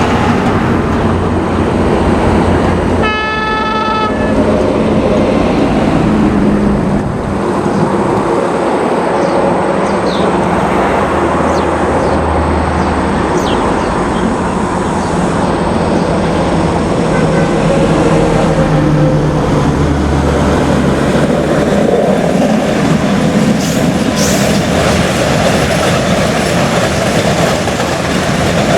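Freight train hauled by a China Railways SS3B electric locomotive rolling past with its 37 wagons: a steady, loud rumble of wheels on rails with some clickety-clack. A train horn sounds once, briefly, about three seconds in.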